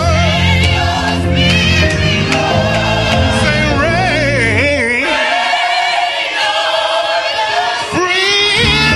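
Gospel worship song: a choir singing with wavering, held notes over a band. The low accompaniment drops out about five seconds in, leaving mostly the voices, and comes back near the end.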